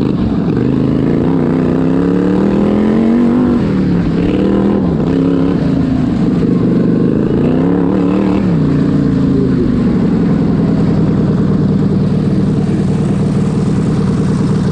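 A racing tractor's V-twin engine revving up and down several times, then settling to a steady lower note about ten seconds in.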